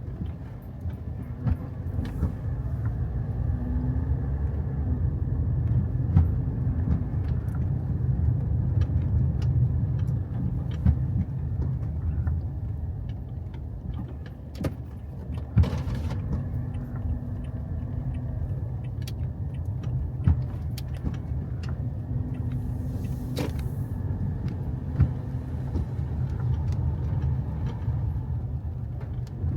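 A car driving: a steady low rumble of engine and road noise, with scattered sharp clicks and knocks throughout.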